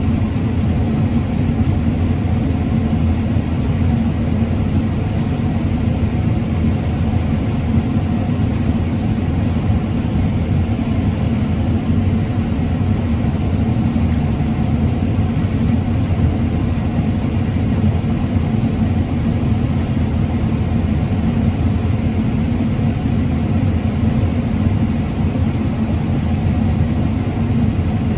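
Combine harvester running steadily under load while harvesting corn: a continuous low engine and machinery rumble that does not change.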